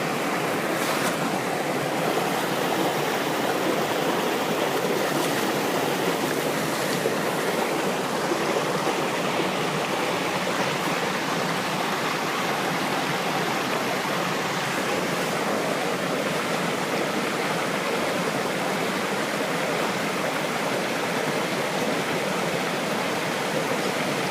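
Waterfall and its stream rushing: a loud, steady roar of falling water that hardly changes.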